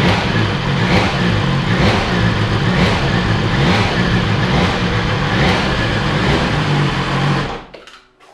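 A BMW S1000XR's inline-four engine running and being revved in short blips about once a second, then switched off near the end, the sound cutting off suddenly.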